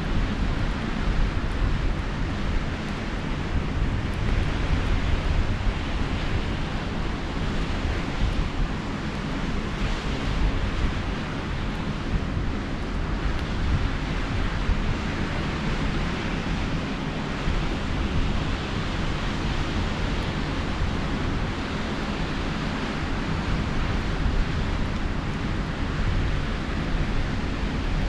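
Sea surf washing steadily on the shore, swelling and easing, with wind buffeting the microphone.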